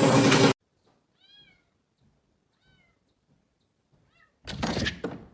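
A cat meowing three short, faint times, each call rising then falling, about a second and a half apart. Near the end comes a loud, brief noisy burst.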